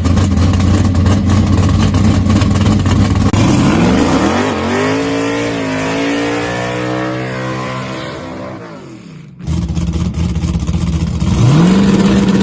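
Drag racing car engine running loud and low at the line, then launching: the pitch climbs as it accelerates away and fades. After a sudden cut, another engine runs loud and revs up sharply near the end.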